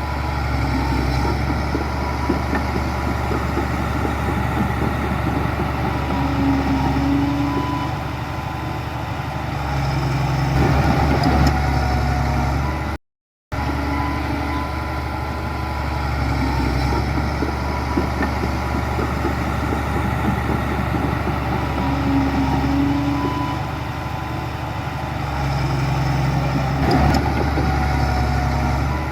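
Heavy diesel engine of earthmoving machinery running steadily, with its pitch and load rising and falling slightly. The sound cuts out briefly about halfway through, and the same stretch of engine sound then repeats.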